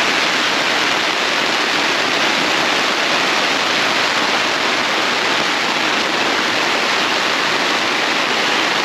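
Heavy, continuous rain drumming on a tent, a dense steady hiss with no let-up.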